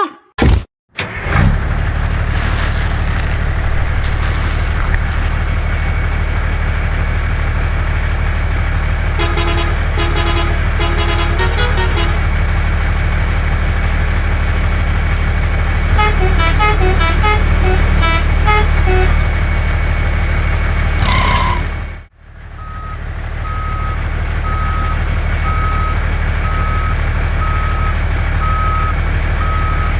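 Truck engine running steadily, with two short runs of tune-like horn toots. After a brief drop in sound the engine runs on under a steady series of reversing beeps, a little under one a second.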